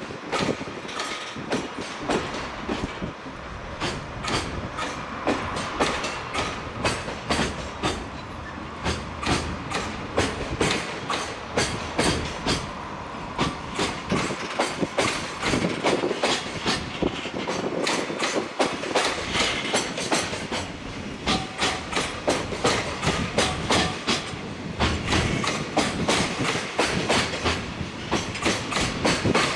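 Container wagons of a freight train rolling slowly past, their wheels clattering over rail joints and points in a rapid, irregular run of clacks.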